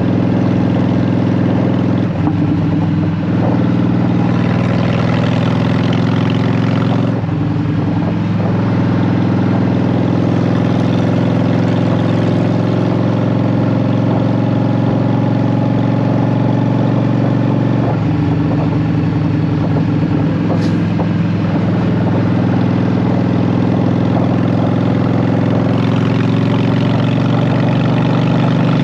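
Honda Shadow VT750's V-twin engine running through Vance and Hines Short Shots exhaust pipes, a steady low engine note that shifts in pitch a few times, at about two, seven and eighteen seconds in.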